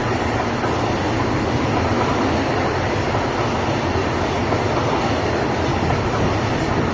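A train passing close by on the line, its wheels rumbling steadily on the rails.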